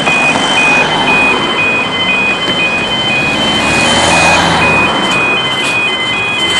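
Railway level crossing warning alarm sounding: two high tones alternating about twice a second. Road traffic noise runs underneath, swelling as a vehicle passes in the middle.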